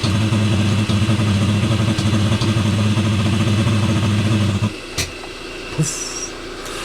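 Eberspacher D1L diesel heater running just after lighting, a steady low hum from its burner and fan. The hum drops away suddenly a little over halfway through, followed by a sharp click and a brief hiss.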